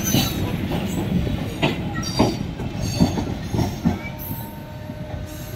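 Indian Railways EMU local train moving off, its wheels clacking irregularly over rail joints and points over a steady rumble, fading as the rear coach pulls away.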